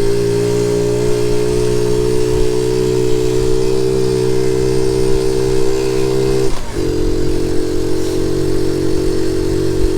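Honda Z50J monkey bike's small single-cylinder four-stroke engine running steadily under way, with low wind rumble. About six and a half seconds in, the revs drop sharply for a gear change on its semi-automatic gearbox, then hold steady again.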